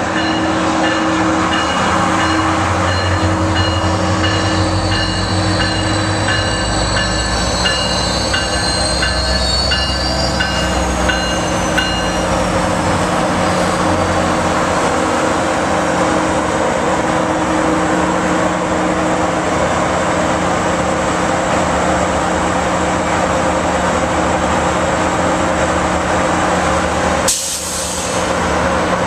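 Metrolink commuter train rolling past a station platform with a steady drone and rumble. High-pitched squeals slide down in pitch during the first half. A short hiss comes near the end.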